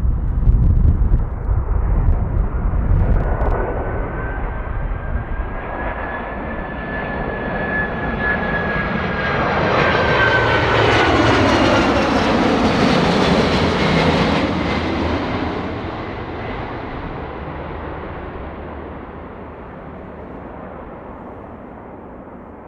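Jet airliner passing close by: the engines' whine builds, peaks about halfway through, then drops in pitch and fades away. Wind buffets the microphone at the start.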